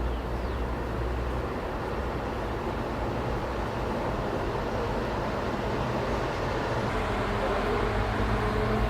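Jet airliner engines: a steady, even rush of engine noise that grows slightly louder toward the end, with a faint tone coming in near the end.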